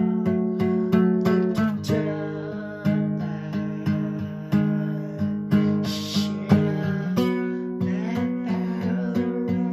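Acoustic guitar music: strummed and plucked chords with sustained ringing notes, changing chord about seven seconds in.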